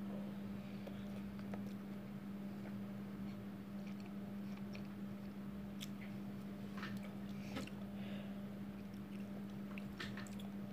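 A person chewing a mouthful of fried instant noodles, faintly, with a few soft clicks of a metal fork in a plastic tub, over a steady low hum.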